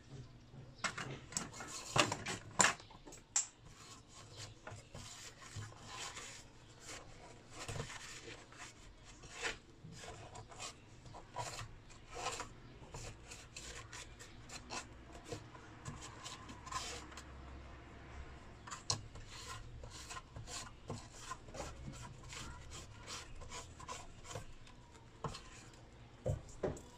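Irregular scraping and rubbing strokes as soot is cleaned off a burnt inverter's circuit board, blackened by a component blowing up.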